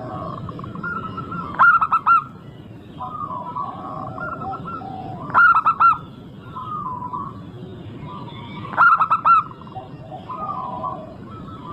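Zebra doves (perkutut) cooing: three loud phrases of a few quick notes each, about every three and a half seconds, with softer wavering calls in between.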